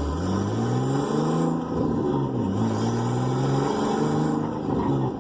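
Car engine accelerating through the gears: the pitch climbs, drops at a gear change about halfway through, then climbs again and drops near the end.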